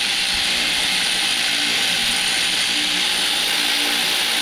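A cordless power tool, such as a drill or ratchet gun, running steadily at a constant speed, used on fasteners during a gearbox refit.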